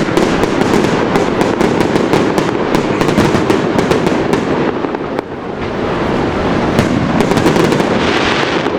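Fireworks display: a dense run of bangs and crackles, easing briefly about five seconds in before building again.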